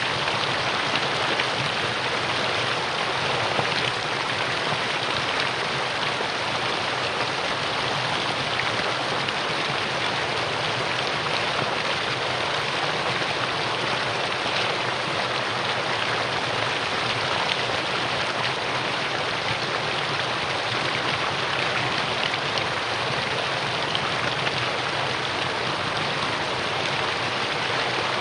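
Mountain stream water rushing and splashing over rocks in a steady, unbroken stream.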